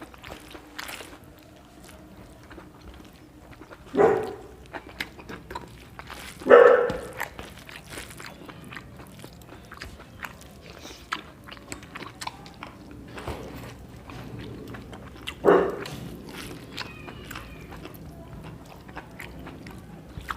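Quiet eating sounds, small clicks of chewing and of fingers on rice and plate, broken by three short loud barks from a dog: about four seconds in, again two and a half seconds later, and once more in the latter part.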